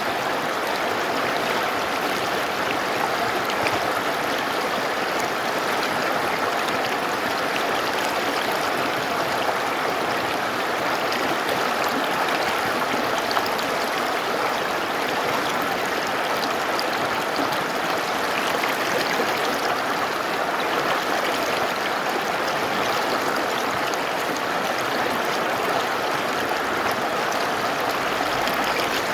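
Mountain river rushing and babbling over rocks, a steady even flow of water.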